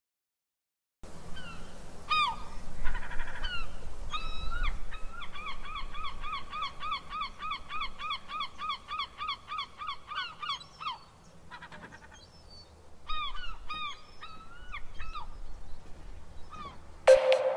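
Honking bird calls. A few single calls come first, then a quick even run of about three calls a second lasting some six seconds, then more scattered calls.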